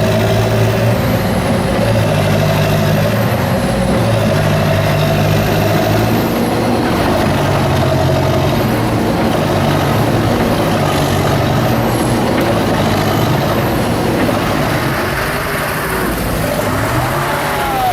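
A heavy engine running steadily, its pitch rising and falling as the load changes, with a faint high whine wavering above.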